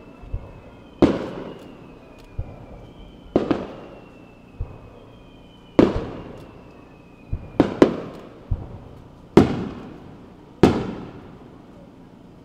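Japanese aerial firework shells launching from mortars with short dull thumps and bursting in loud bangs with long echoing tails, about one every one to two seconds, a couple of them doubled. A faint high whistle drifts slowly down in pitch through the first half.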